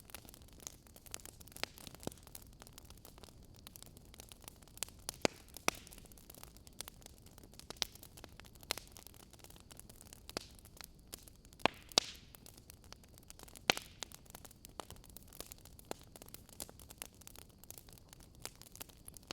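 Wood fire crackling in a fireplace: irregular sharp pops and snaps, a few louder cracks about five, twelve and fourteen seconds in, over a soft steady hiss.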